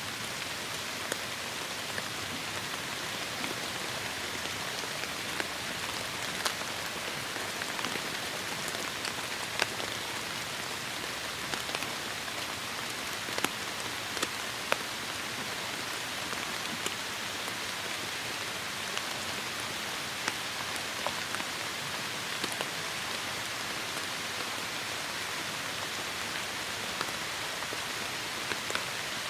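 Heavy rain falling steadily, a dense hiss with many sharp individual drops striking a surface.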